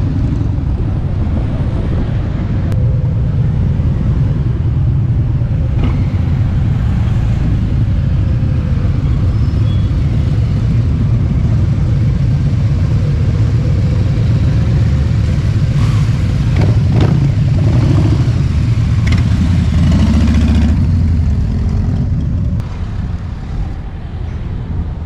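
Motorcycle engine running steadily while riding, with road and wind noise over it. The engine eases off near the end.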